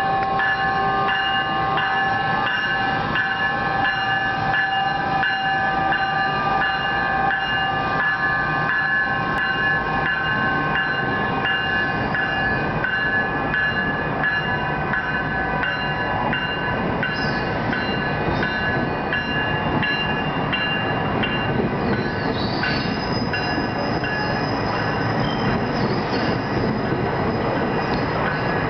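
NJ Transit ALP-46A electric locomotive pulling a train of bi-level cars out of the station: a steady electric whine of several tones fades over the first half as the locomotive moves off, leaving the rumble of steel wheels on rails with regular clicks over the rail joints. A few brief high wheel squeals come in the second half.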